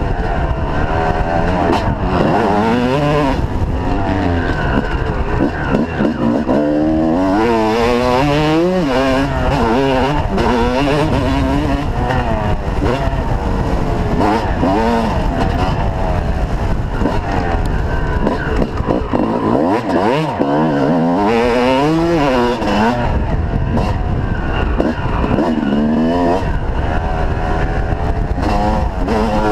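Motocross bike engines running hard on a track, their pitch climbing and dropping again and again as the riders rev through the gears and back off, with more than one bike heard at times.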